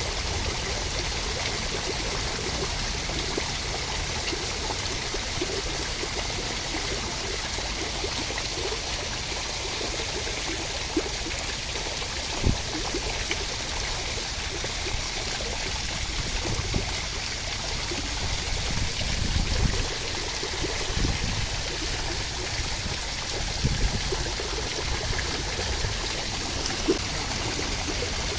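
Steady rain: an even hiss of falling water, with scattered sharper drop taps, a few of them louder.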